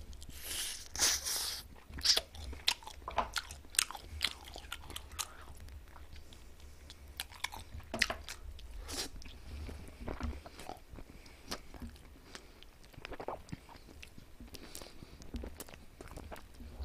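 Close-miked chewing of sauce-glazed chicken wings: wet mouth clicks and smacks, coming thick in the first few seconds and then more sparsely.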